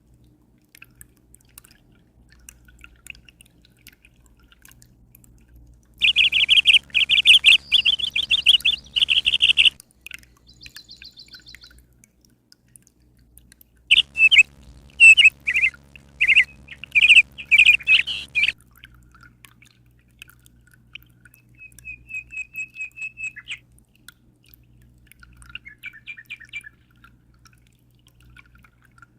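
Birds chirping in two loud spells of rapid, repeated notes, with shorter, softer trills in between.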